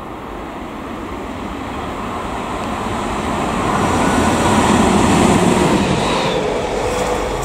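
Electric locomotive running through the station on the adjacent track, its wheel and running noise building as it nears, loudest as it passes about five seconds in, then easing off.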